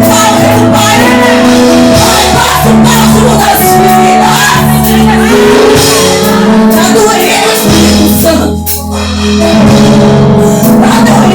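Live gospel worship music: a band holds bass notes and chords while voices sing and shout along. About three-quarters of the way through, the music briefly thins out, then comes back in full.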